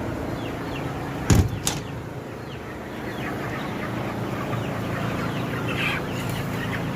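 A flock of broiler chickens clucking and chirping over a steady low hum. Two sharp knocks, close together, come about a second and a half in.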